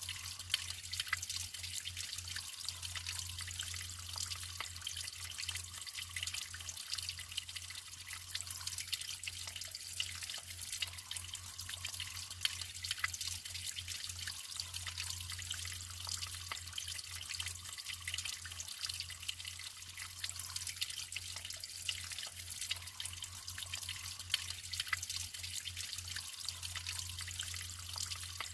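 Natural running water trickling and splashing steadily, with a constant low hum underneath.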